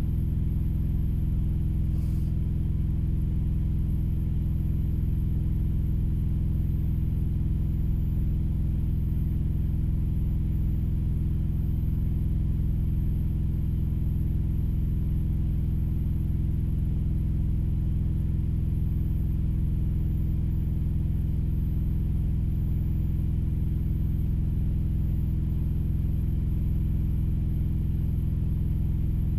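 Steady low rumble of an idling engine heard from inside a truck cab, unchanging throughout.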